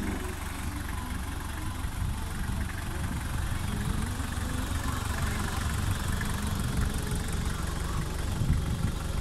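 Toyota BJ40's diesel engine idling steadily with a low rumble.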